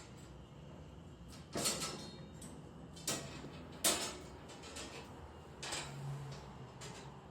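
A kitten climbing, its claws and paws making several short scrapes and knocks, about five spread out, the loudest near the middle.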